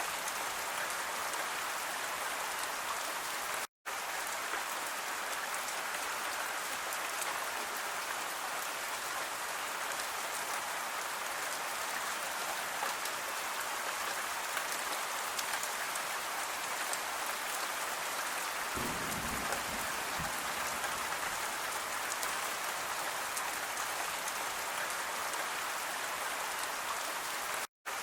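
Steady rain falling, an even hiss with many small drops pattering. The sound cuts out completely for an instant twice, about four seconds in and again near the end.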